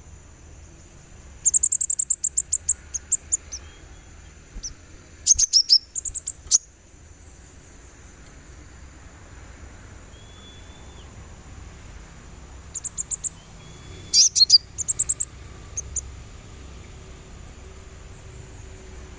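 Sunbird calls, the kolibri ninja (olive-backed sunbird) used to train songbirds: four bursts of rapid, very high chirps, over a steady high insect-like drone.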